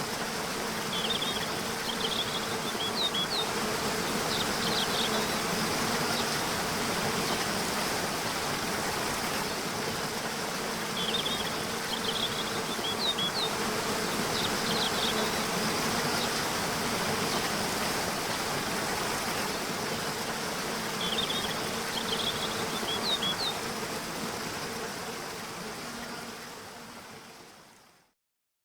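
Waterfall rushing steadily, with a short burst of bird chirps three times, about every ten seconds, over the falling water. The sound fades out near the end.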